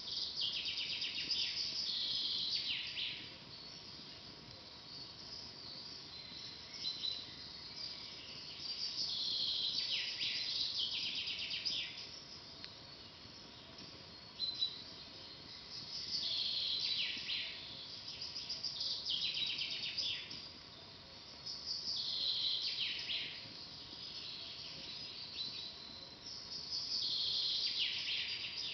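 A songbird singing the same phrase over and over: a descending trill of about three seconds, repeated about every six seconds, five times in all.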